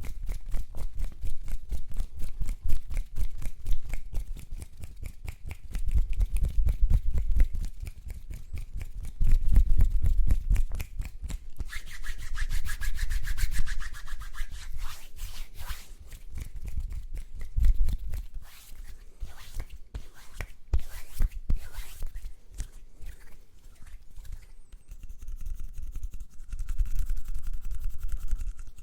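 Close-miked ASMR mouth and hand sounds: a fast, dense run of clicks and pops over low rubbing thuds from hands working right at the microphone.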